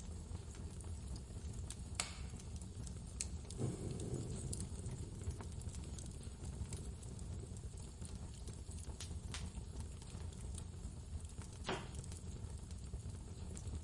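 Fireplace crackling, with scattered sharp pops at irregular intervals, over a steady low rumble of blizzard wind.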